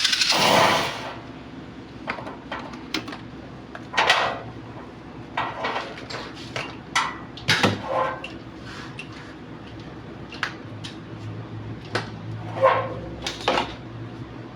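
A power tool runs down and stops about a second in. It is followed by scattered clinks and knocks of metal tools and parts being handled and set down.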